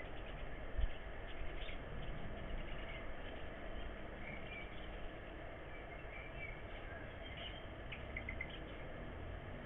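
Scattered short, high bird chirps over a steady outdoor background noise, with a brief low bump just under a second in.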